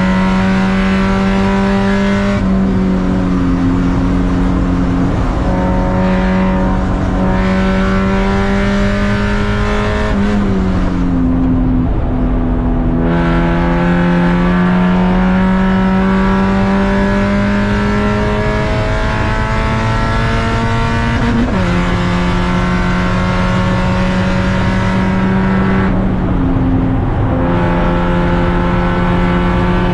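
Race car engine running hard under sustained load, its pitch climbing slowly over long stretches. The pitch drops about ten seconds in and again near the end, and jumps up sharply a little past twenty seconds, as with a downshift.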